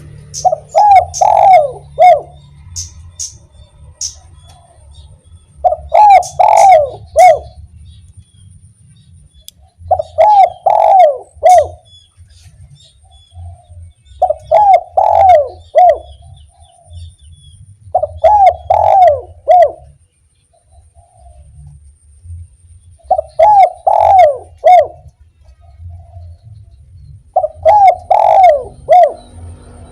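Spotted dove (derkuku) cooing its song phrase, of the type fanciers call "kuk 1", seven times at intervals of about four seconds. Faint high chirps from small birds sound between the phrases.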